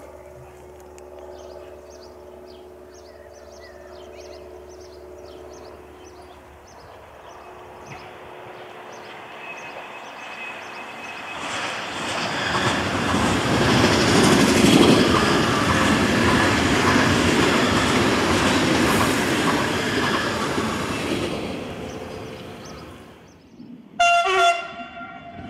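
BLS electric multiple-unit train passing close, its wheels clattering over rail joints and points, building up to a loud rush and then fading away. About a second before the end, a train horn gives a brief loud blast.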